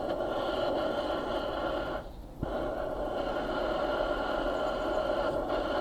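A motor-driven tool running steadily with a constant whine. It cuts out briefly about two seconds in, starts again, and stops near the end.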